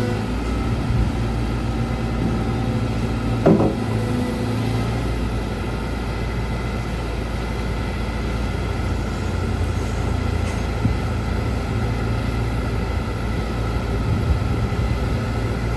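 Caterpillar 313GC excavator's diesel engine running steadily, with one sharp knock about three and a half seconds in.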